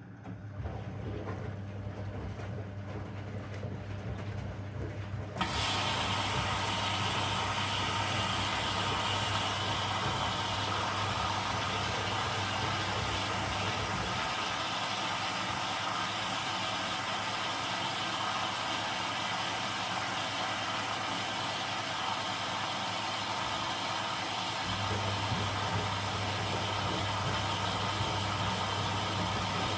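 Zanussi DL22 washing machine running: a low hum starts at once, and about five seconds in a loud, steady rushing noise sets in and holds. The low hum stops about halfway through and comes back near the end.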